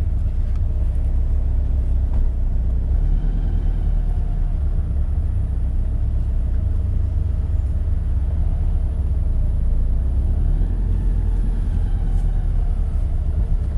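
Supercharged Scion FR-S flat-four engine idling with a steady low rumble through its reworked exhaust, which gives it the deeper Subaru boxer sound.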